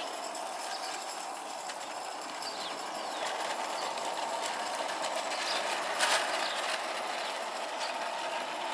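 Scratch-built live-steam model of a Sharp Stewart Darjeeling Class B locomotive running slowly with its carriages on a garden railway, its regulator barely open. Birds chirp briefly a few times.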